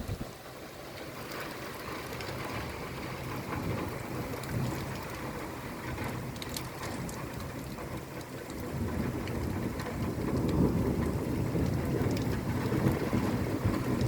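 Raindrops pattering on window glass and a windowsill, with scattered sharper drop hits. A low rumble of distant thunder swells in the second half and gets louder toward the end.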